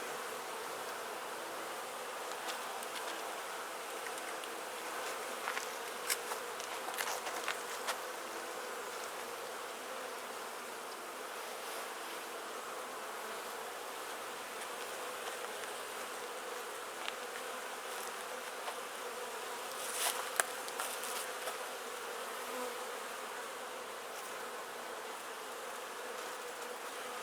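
Honeybees from an opened Langstroth hive buzzing in a steady hum. A few light clicks and taps come through, a cluster about six to seven seconds in and another about twenty seconds in.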